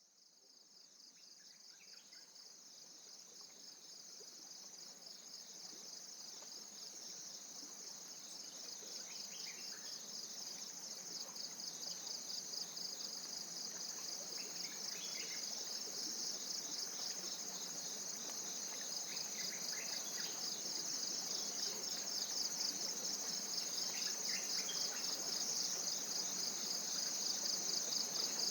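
Tropical forest insect chorus: a steady, rapidly pulsing high-pitched trill that never breaks, with a few faint bird chirps over it. It fades in from silence and grows gradually louder throughout.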